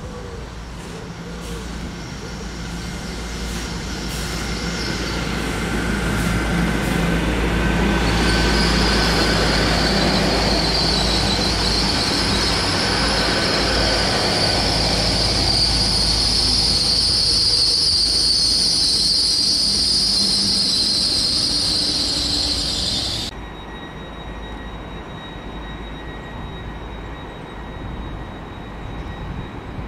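Great Western Railway Hitachi Intercity Express Train passing on the main line. The rumble of wheels on rails grows as it approaches, then runs loud and steady with a high-pitched hiss on top. The sound cuts off abruptly about two-thirds of the way through, leaving a quieter rumble.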